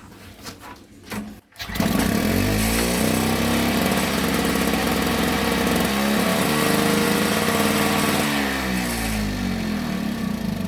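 Victa Tilt-a-Cut S90 power edger's two-stroke engine starting about a second and a half in, revving up, holding, and then dropping back in speed near the end. It runs cleanly now that its flooding G4 carburettor has been repaired.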